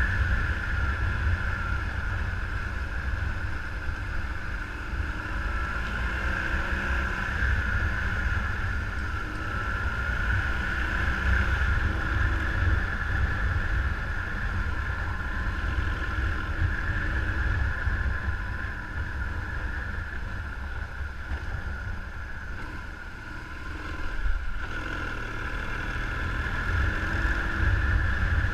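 Vehicle on the move, heavy wind rumble on the microphone over a steady drone. A single knock about 24 seconds in.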